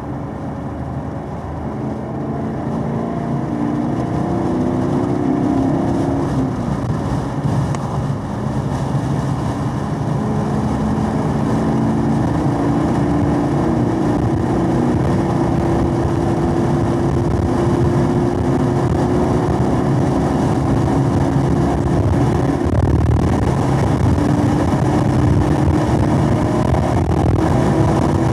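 Chevrolet Camaro SS 1LE's 6.2-litre V8 under hard acceleration, heard from inside the car. After an upshift from third to fourth in the first several seconds, the engine note climbs steadily and grows louder as revs rise toward 5,000 rpm.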